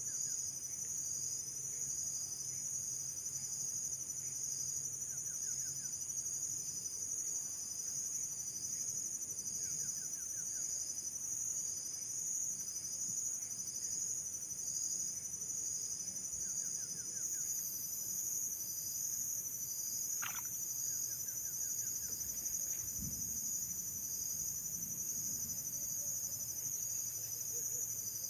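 Insects chirping in a continuous high, pulsing chorus, with a short series of quick, fainter chirps every few seconds.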